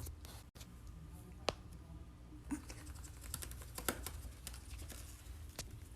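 Faint, irregular light clicks and taps, most of them about halfway through, over a low steady hum.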